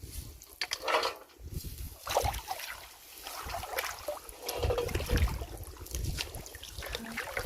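Shallow floodwater in a rice field sloshing and splashing in irregular surges as someone wades and picks snails from it, with wind rumbling on the microphone.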